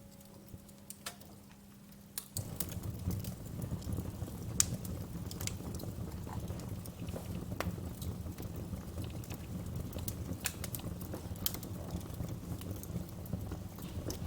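Wood fire crackling in a fireplace: scattered sharp pops and snaps over a low, steady rumble of flames that sets in about two seconds in.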